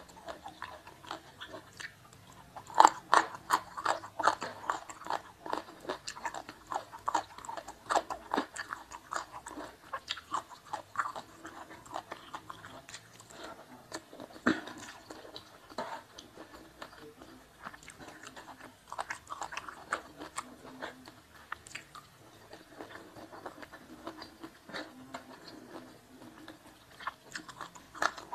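Close-miked chewing of rice and sweet-and-sour fish, with crisp crunchy bites and wet mouth sounds. The bites come thick and fast in the first ten seconds, thin out in the middle, and pick up again near the end.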